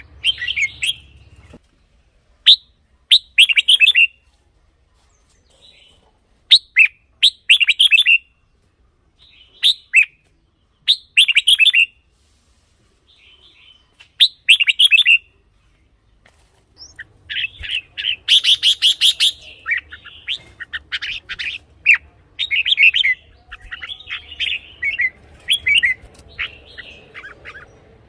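Red-whiskered bulbul singing short, loud, chirpy phrases, at first with pauses of a second or two between them, then strung almost without a break through the second half.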